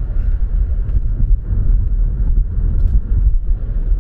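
Car interior while driving: a steady low rumble of engine and tyre noise.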